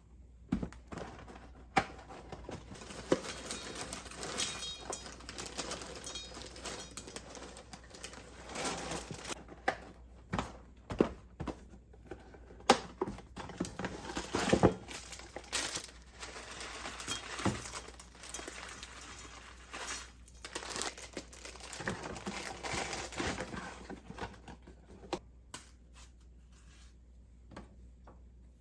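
Objects being handled: irregular crinkling and rustling with many scattered clicks and knocks, thinning out near the end.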